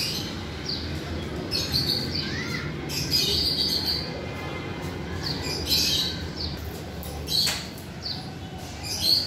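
Small birds chirping: short, high chirps come every second or so over a steady low rumble.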